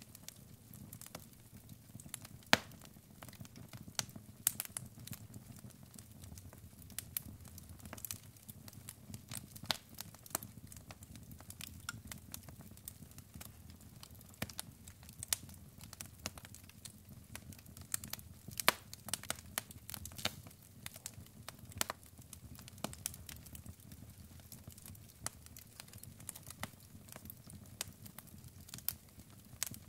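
Logs burning in a fireplace, crackling: irregular sharp pops and snaps of varying loudness over a steady low undertone of the fire.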